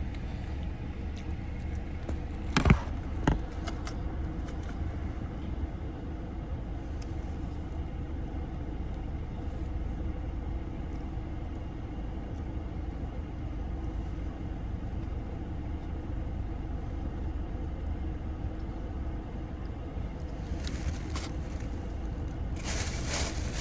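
Steady low rumble inside a car's cabin, the sound of a car at rest with its engine running, with two sharp clicks a little over half a second apart about three seconds in.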